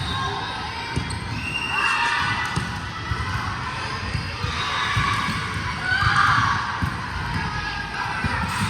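Sports-hall sound during a youth volleyball match: irregular low thuds of balls bouncing and feet on the court, with shouts and chatter from players and spectators in the background.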